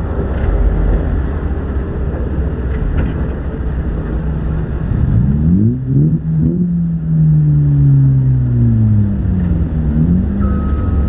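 Demolition derby car's engine idling with a steady low rumble. About halfway through, an engine revs up and slowly winds back down. Near the end a reversing beeper starts.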